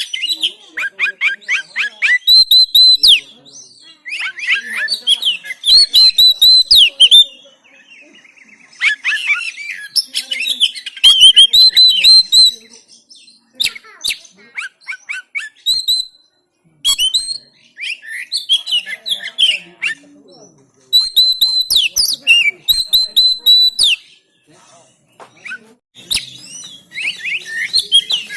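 Oriental magpie-robin (kacer) singing: loud bursts of rapid, varied whistles and chirps a few seconds long, with short pauses between them.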